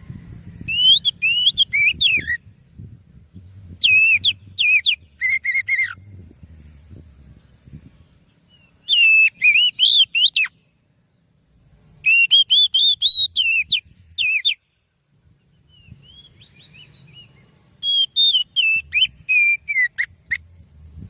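Oriental magpie-robin (kacer) singing: five phrases of rapid, sliding whistled notes, each about two seconds long, with short pauses between them. A faint low hum sits underneath.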